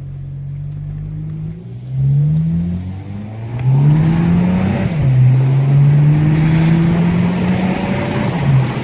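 2016 Audi A3 with its muffler cut off, accelerating hard through the gears, heard from inside the car. The exhaust note climbs in pitch and falls back at each upshift, and gets louder about two seconds in.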